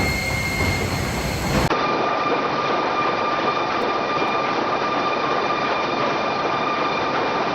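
Sawmill machinery running steadily, a dense mechanical rumble and rattle with a high whine. About two seconds in the sound changes abruptly to a thinner mix with a different steady whine.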